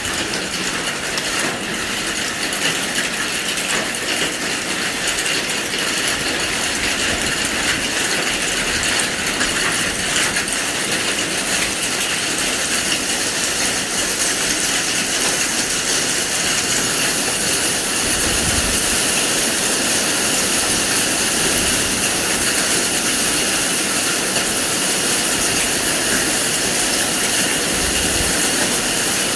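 Hailstorm near its end: rain and hail falling hard, a steady dense hiss with faint scattered clicks.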